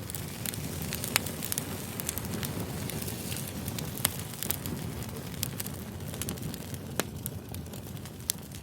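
Campfire burning: a steady low rush of flames with scattered sharp pops and crackles from the wood.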